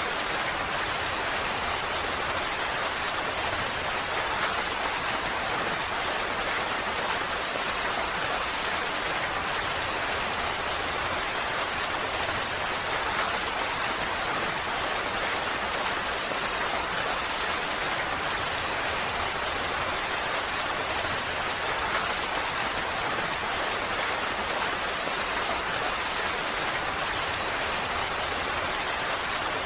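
Steady, even rain falling, a constant hiss of rain on a surface with faint scattered drop ticks.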